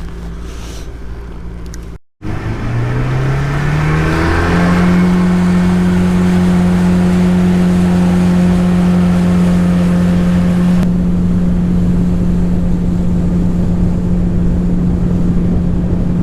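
Boat's outboard motor throttling up, its pitch rising for about two seconds, then running steadily at speed over a wash of wind and water noise.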